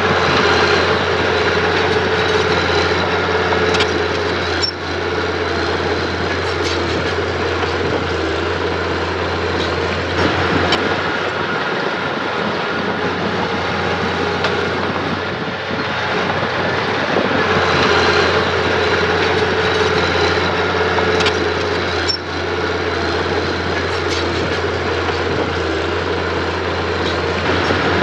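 Mitsubishi mini bulldozer's diesel engine running continuously, swelling louder and easing off several times as it works, with a few sharp metallic knocks.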